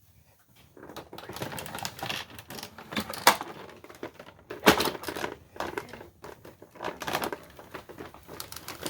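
Irregular clicking, knocking and rattling of a Hoover WindTunnel upright vacuum's plastic body and parts being handled and moved, with short pauses and a few louder knocks.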